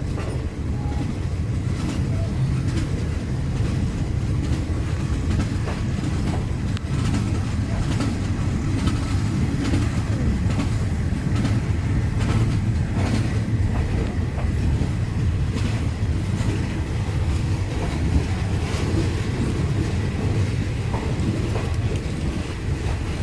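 Passenger train running steadily along the track: a continuous low rumble with irregular clicks and knocks from the wheels passing over the rail joints.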